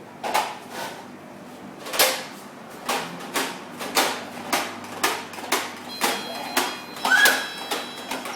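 Footsteps, a sharp tap about twice a second, with a short high squeak about seven seconds in.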